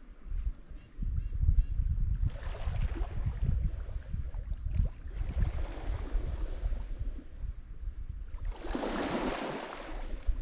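Lake Michigan waves breaking on the shore: a wash of surf a couple of seconds in and a louder, hissing one about nine seconds in. Wind rumbles on the microphone throughout.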